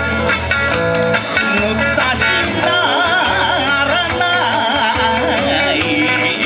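Kawachi ondo band accompaniment: plucked string instruments playing over a steady drum beat, with a wavering melody line in the middle.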